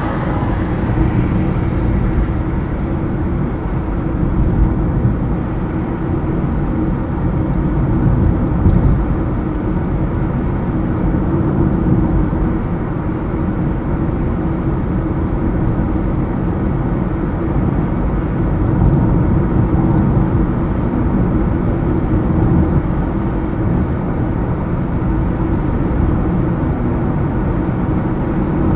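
Steady road noise of a car driving at speed on a highway: a low rumble of tyres on asphalt with the engine's hum under it.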